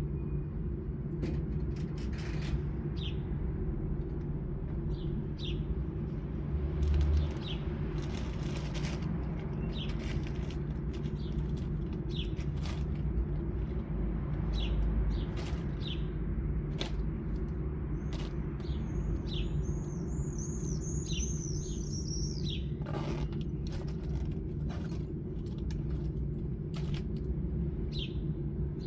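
Honda Shadow 600 V-twin idling steadily, with birds chirping over it: short chirps every second or two and a longer warbling song about two-thirds of the way in. A brief low thump comes about seven seconds in.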